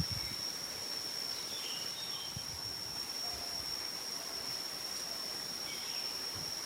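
An insect, such as a cricket or cicada, keeps up one steady, unbroken high-pitched trill, with a few faint short chirps, likely birds, about a second and a half in and again near the end.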